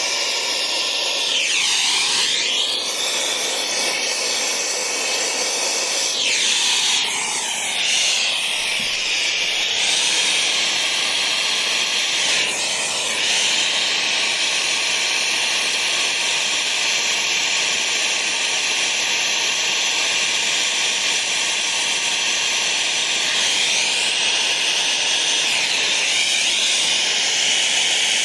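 Air-acetylene turbo torch burning with a steady hiss while brazing copper refrigerant lines, its tone sweeping up and down several times.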